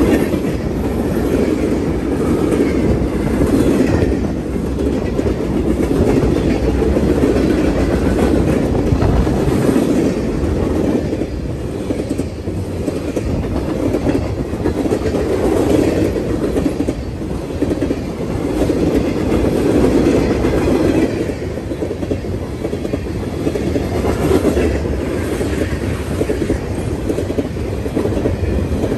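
Freight train's tank cars and flatcars rolling past close by: steel wheels running on the rails with clacks over the rail joints, the sound swelling and easing every few seconds as the cars go by.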